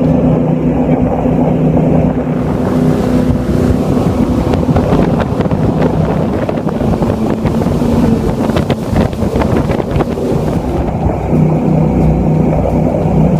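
Jet boat engine running steadily at speed, with wind buffeting the microphone. From about two seconds in until near the end, a louder rush of wind and water covers much of the engine note.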